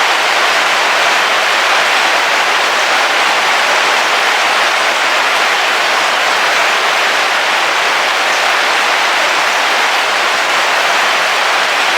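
Heavy rain falling on a camping car's roof, heard from inside the car: a steady, even hiss.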